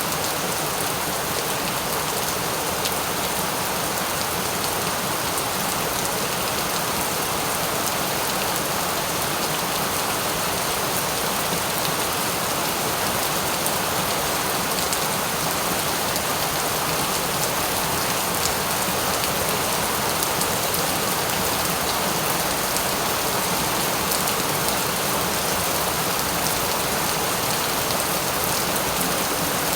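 Steady, even rain falling on a surface, a dense hiss with fine scattered drop ticks.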